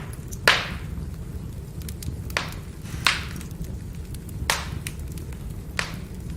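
Firewood burning with a steady low rumble and sharp crackling pops, five in all, the loudest about half a second in.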